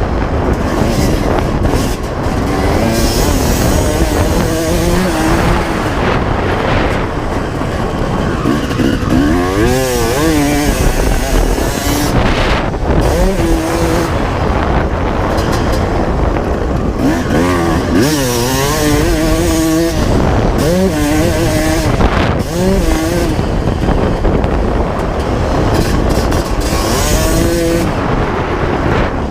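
A 1995 Honda CR250R's single-cylinder two-stroke engine being ridden hard. The revs climb and drop over and over as the throttle opens and closes and the gears change.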